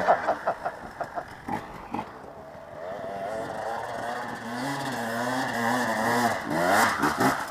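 Motocross dirt bike engine running, quieter at first, then rising in level with its revs wavering up and down, loudest near the end.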